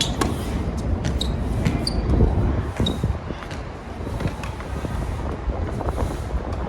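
Strong wind buffeting the microphone as a steady low rumble, with the irregular sharp pops of tennis balls being struck and bouncing on the hard court, and a few brief high squeaks.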